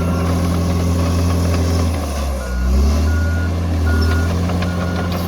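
Diesel bulldozer engine running steadily. About halfway through, its pitch dips and climbs back, and a reversing alarm starts beeping about once every 0.8 s.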